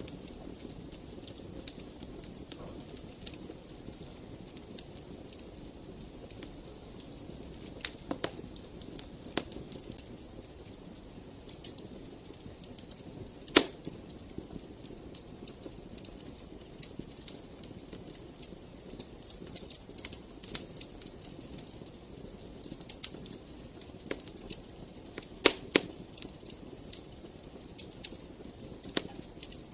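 Wood fire in a fireplace crackling: frequent sharp pops and snaps over a soft steady hiss, with one loud pop near the middle and a cluster of louder snaps near the end.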